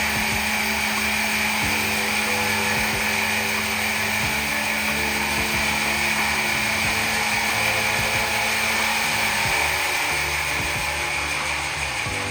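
A power saw running steadily while cutting timber, with background music underneath.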